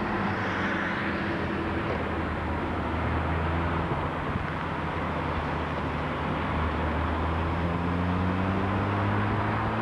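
Car engine and tyre noise heard from inside a moving car, the engine note shifting with speed and climbing over the last few seconds.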